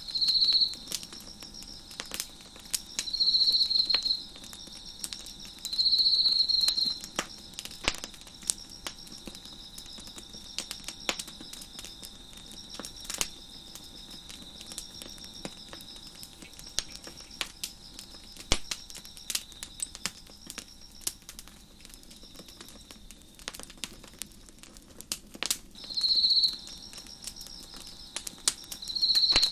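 Crickets chirping: several loud trills about a second long, three in the first seven seconds and two near the end, over fainter steady chirping, while a fire crackles with scattered sharp pops.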